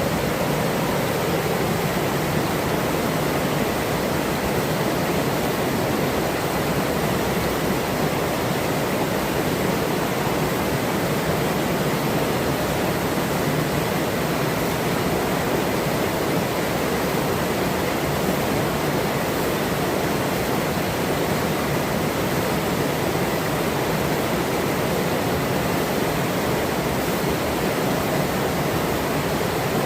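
Forest river water flowing steadily: a constant, even rushing with no breaks.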